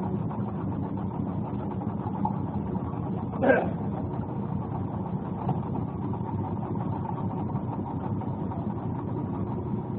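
An engine running steadily at idle, with one short, louder pitched sound about three and a half seconds in.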